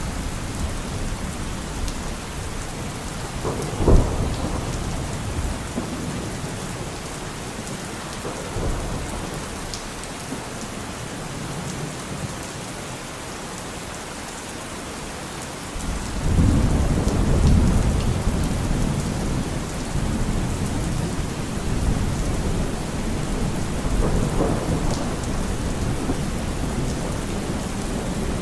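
Steady rain falling, with thunder: a sharp clap about four seconds in, and a long low rumble that rolls in a little past halfway and carries on.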